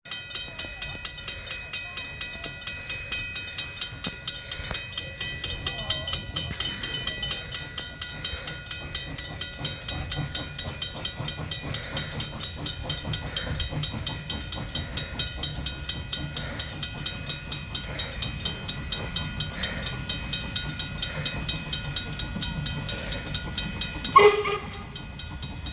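Railway level-crossing bell ringing in even strokes, about three a second, over the low rumble of a passing steam train. Near the end the locomotive gives one short, loud whistle blast.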